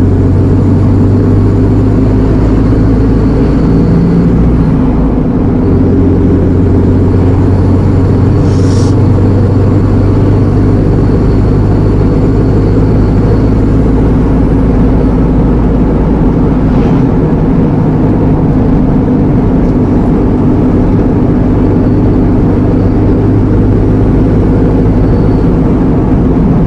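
Iveco Eurocargo lorry's diesel engine and road noise heard from inside the cab while driving, a loud, steady drone. Two brief sharp clicks come about a third of the way in and again past halfway.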